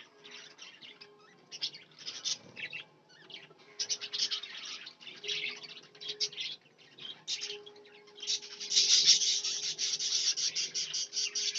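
Budgerigars chirping and chattering in quick, short, high calls, sparse at first and turning into dense, louder chatter about eight seconds in.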